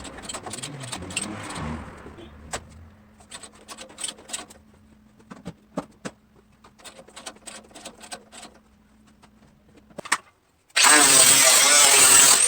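Scattered clicks and knocks of work going on, then near the end a power tool starts abruptly and runs loudly and steadily.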